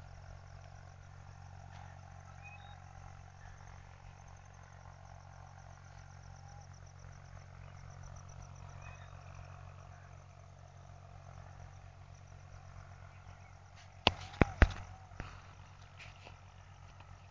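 Insects trilling in a rapid, high-pitched pulse over a steady low hum. About fourteen seconds in there are a few sharp, loud knocks.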